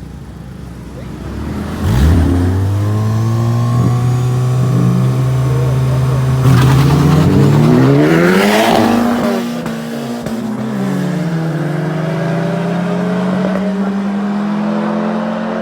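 Cars racing side by side at full throttle. The engines come in loud about two seconds in and hold steady, and around eight to nine seconds the cars pass close by with a falling pitch, then run on as a steady drone.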